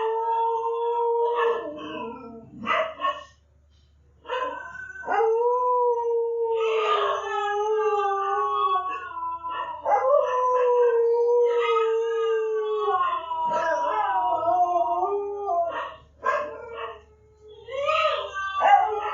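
A dog howling in long, drawn-out howls that sag slightly in pitch, with short yelping bits and brief pauses between them.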